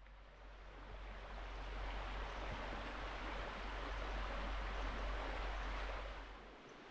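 Steady rush of a river flowing, with a low rumble underneath; it swells in just after the start and fades away near the end.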